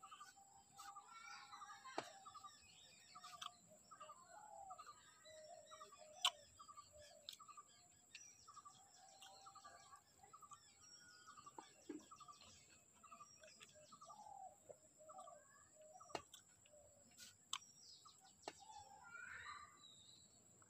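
Faint birds chirping: one bird repeats a short call about twice a second while others chirp around it. A few sharp clicks come through, the loudest about six seconds in.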